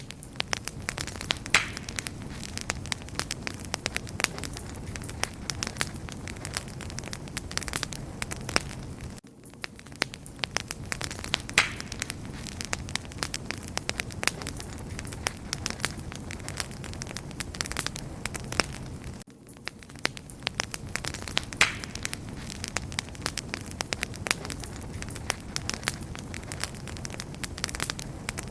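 Wood fire burning: dense crackling and popping over a steady low rumble of flames, with sharper pops now and then. The level dips briefly about every ten seconds.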